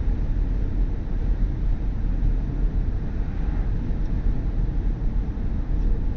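Steady low road and tyre rumble of a BMW i4 M50 electric car on the move, with no engine note.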